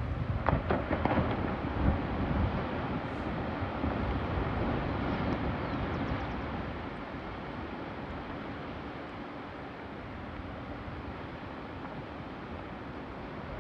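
Wind rushing and buffeting the microphone on a boat at sea, gusty and louder in the first couple of seconds, then easing to a steadier rush.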